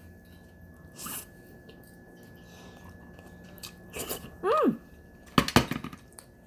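Close-up eating of steamed crab: soft chewing and mouth noises, a short hummed "mm" rising and falling about four and a half seconds in, then a burst of sharp cracks and crunches a second later.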